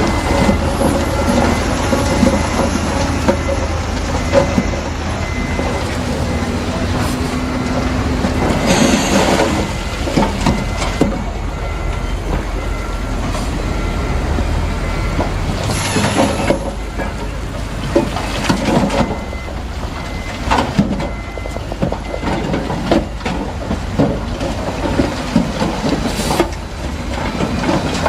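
Bulldozer working: its diesel engine running under load with steel crawler tracks clanking and squealing, and rock grinding and knocking, with several louder crashes at irregular intervals.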